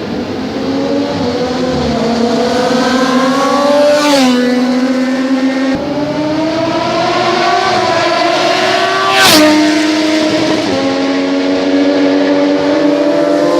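A vehicle engine or motor running under load, its pitch climbing steadily and then dropping suddenly, about four seconds in and again about nine seconds in.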